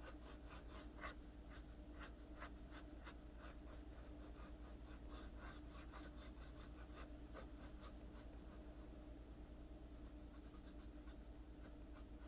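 Graphite pencil scratching on paper in quick, short, light strokes, several a second, as loose hair strands and ends are sketched.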